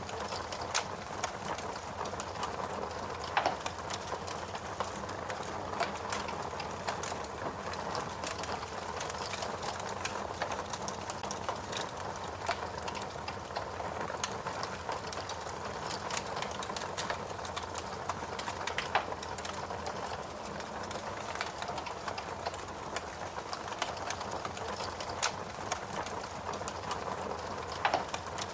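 Wood fire burning with a steady hiss and constant irregular crackling, with a few louder pops now and then.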